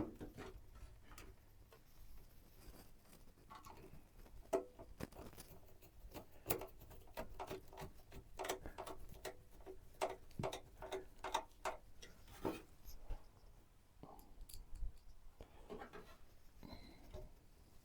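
Hands assembling a PC: a run of light clicks and taps of plastic and metal parts being handled and fitted, busiest in the middle stretch.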